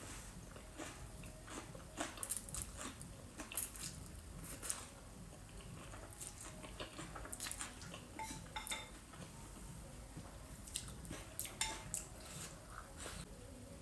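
Eating sounds: biting and chewing octopus and spicy noodles, with irregular sharp clicks and wet mouth sounds and occasional utensil taps on the dish.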